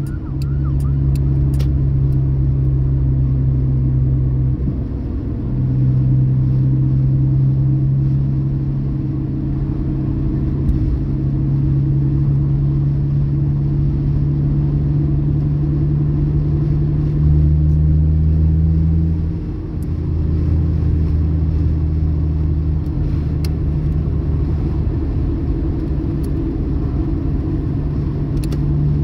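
Car engine held at steady revs under the accelerator, a loud drone that eases off briefly about five seconds in and again near twenty seconds, and steps up in pitch a little past halfway.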